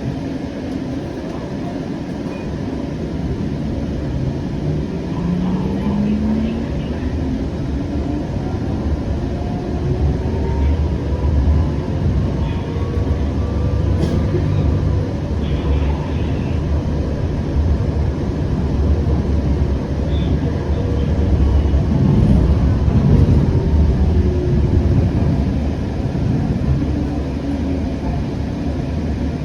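Siemens S700 light-rail car running between stops, heard from inside: a steady low rumble of wheels on the track, with the traction motors' whine gliding up in pitch and then rising and falling with speed. A single sharp click comes about 14 seconds in.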